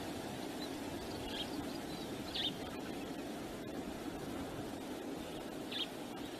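Steady wind noise on an outdoor microphone, with a few short, high bird chirps: one about a second in, a louder one near the middle, and one near the end.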